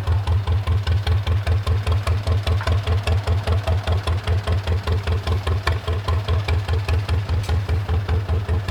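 An engine idling with a steady, even beat, about five beats a second.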